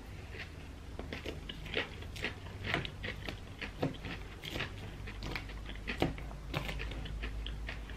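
Close-miked chewing of a mouthful of salad: a string of irregular wet crunches and small clicks.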